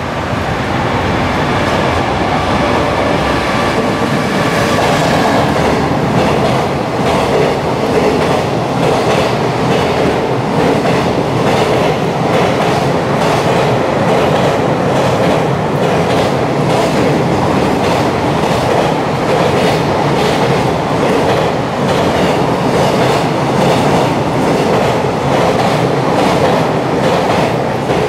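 Long container freight train passing alongside the platform at speed: a steady rumble with a continuous clickety-clack of wheels over the rail joints. A whining tone sounds through the first several seconds.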